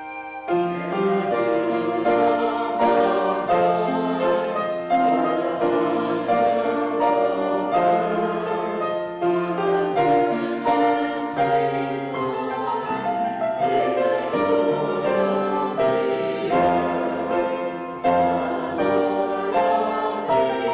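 A choir singing a slow piece in sustained chords, with piano accompaniment.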